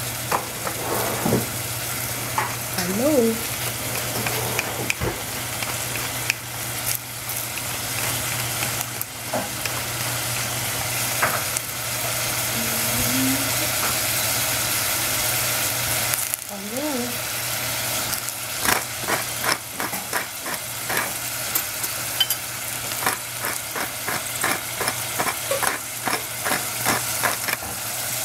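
Strips of celery and red capsicum sizzling in oil in a stainless saucepan, a steady frying hiss with crackles and pops that come thick and fast in the last third.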